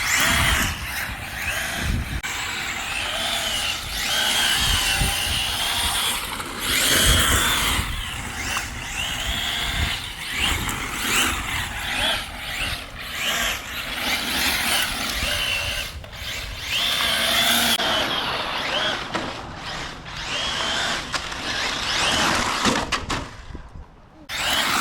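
Arrma Felony 6S RC car's brushless electric motor whining, its pitch rising and falling over and over with the throttle as the car is driven hard and drifted, over a rushing noise of tyres on the tarmac.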